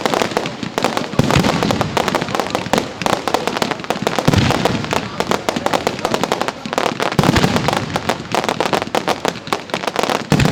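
Fireworks display going off: a dense, rapid stream of bangs and crackles, with deeper booms about every three seconds.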